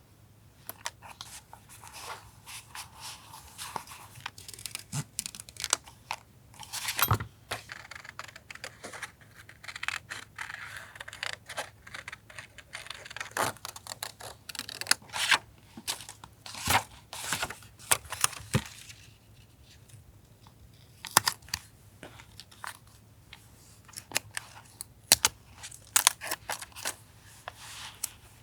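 Paper being handled and torn for a collage journal: crisp rustles, rips and small taps in irregular bursts, with a short quieter spell past the middle.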